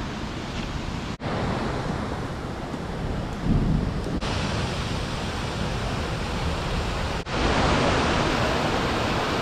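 Steady rushing of a waterfall, in short takes joined by brief cut-outs about a second in, about four seconds in and about seven seconds in. The last take is louder and brighter.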